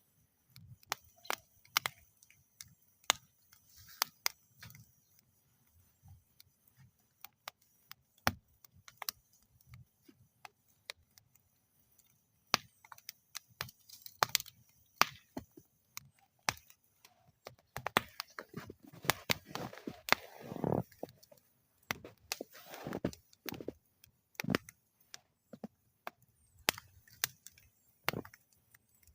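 Wood fire burning in a metal fire bowl, crackling with irregular sharp pops and snaps, busiest about two-thirds of the way through, where a soft rush of flame joins the crackle.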